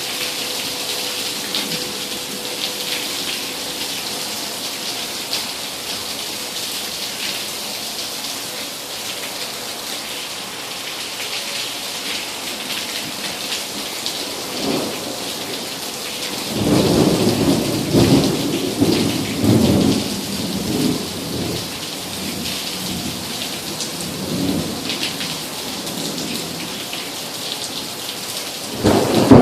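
Steady heavy rain with thunder: a loud rumbling peal rolls in a little past halfway and dies away over several seconds, and another clap begins at the very end.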